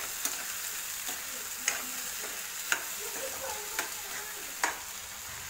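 Cubed potatoes and tomato paste sizzling in hot oil in a kadhai while a spoon stirs them. The spoon knocks against the pan with a sharp click about once a second.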